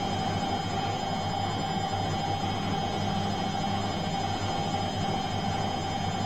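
Washing machine running with a steady, even hum and a few faint high tones above it.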